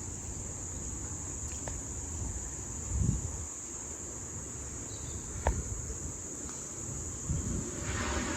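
Insects chirring in one steady, unbroken high-pitched drone, with low gusts of wind rumbling on the microphone and a couple of faint clicks.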